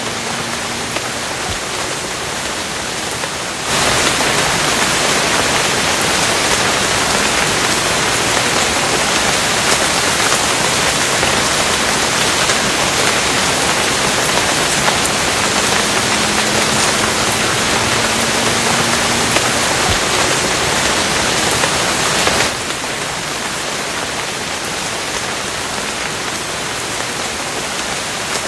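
Steady rain, a dense even hiss of falling drops. About four seconds in it cuts abruptly to a louder, heavier downpour, then drops back just as suddenly to the lighter rain about three-quarters of the way through.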